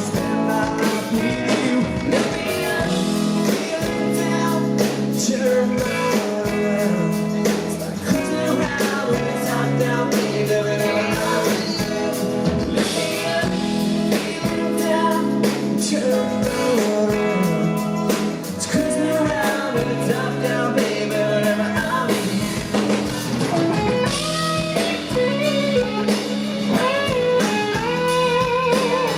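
Country rock band playing live: drum kit, bass and guitars with singing. Near the end a lead line with bent, wavering notes comes to the fore.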